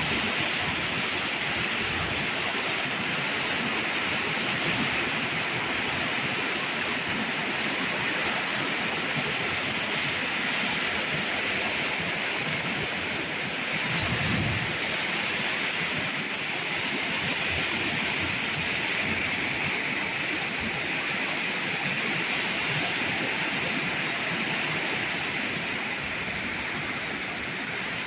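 Torrential rain from a thunderstorm downpour, a steady heavy hiss of rain hitting surfaces. A brief low rumble comes about halfway through.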